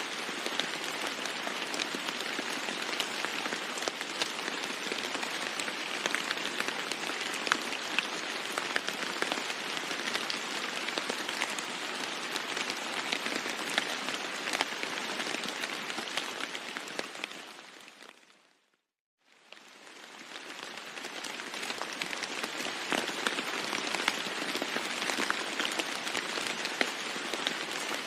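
Steady heavy rain falling on a roof, a dense hiss full of fine drop ticks. About two-thirds of the way through it fades out to silence and fades back in within about two seconds.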